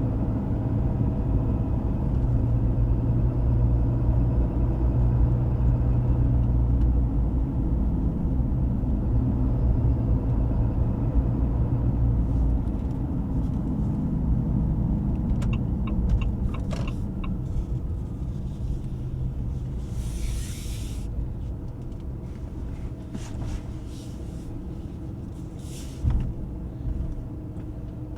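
Ram 2500's high-output 6.7-litre Cummins inline-six turbo-diesel running under way, heard inside the cab with road rumble; the drone is strongest for the first dozen seconds and then eases off gradually. A few clicks come about halfway through, a short hiss about twenty seconds in, and a sharp knock near the end.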